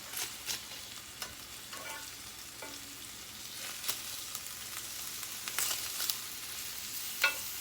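Chicken pieces sizzling in hot oil in a frying pan as they are flipped, with a series of sharp clicks and clinks of the utensil against the pan, the loudest one near the end.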